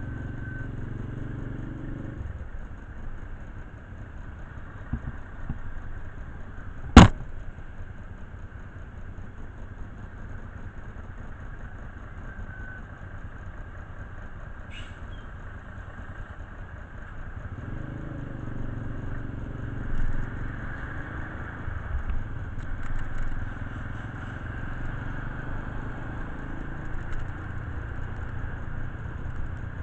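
A low engine rumble that drops away about two seconds in and comes back about eighteen seconds in, with one sharp, loud crack about seven seconds in.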